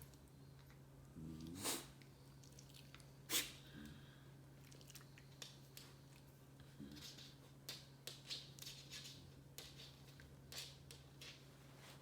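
A pet animal making the mouth and nose noises of its naughty noise: two louder short sharp noises a couple of seconds apart near the start, then a run of quick, small clicks over a faint steady hum.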